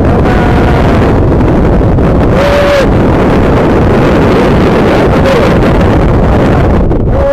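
Strong sea wind buffeting the microphone: a loud, steady rush, with a couple of brief faint tones partway through.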